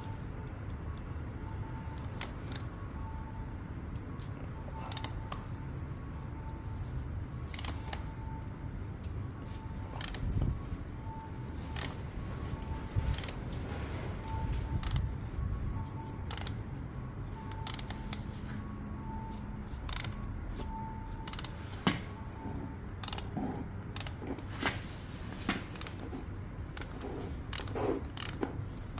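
Irregular sharp metallic clicks and clinks of hand tools being worked, roughly one to two a second, over a steady low hum.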